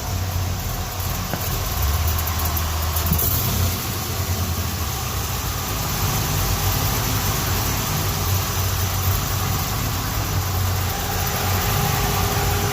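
A 1956 Chevrolet Bel Air's new 360-hp crate engine idling steadily with a low, even hum.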